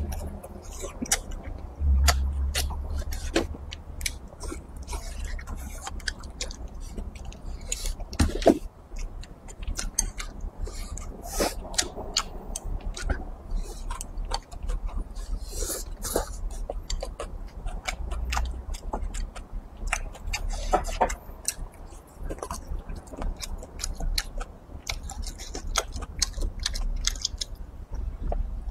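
Close-miked, wet chewing and lip-smacking of a person eating braised pig's trotter and rice, with many quick sticky smacks and a few louder clicks.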